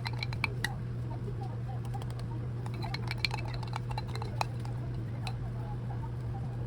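Kitchenware clinking and tapping lightly now and then over a steady low hum.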